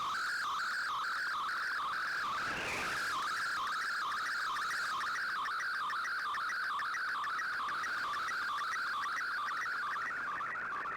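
Shortwave digital-mode broadcast received on an Icom IC-R8600: a steady band of warbling data tones over faint static, repeating in a regular pattern several times a second.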